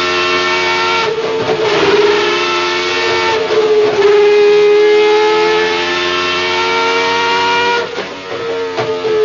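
Renault Formula 1 V10 engine running on a test bench at high revs through its individual throttle bodies, giving a high, harmonic-rich scream. The revs hold high with a few quick blips early on and sag slowly through the middle. Near the end they drop sharply for a moment, then rise again.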